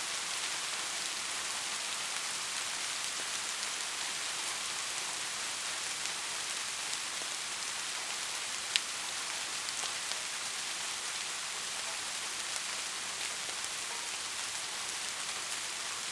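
Heavy rain falling steadily, an even hiss with no thunder. One sharp tick stands out a little past halfway.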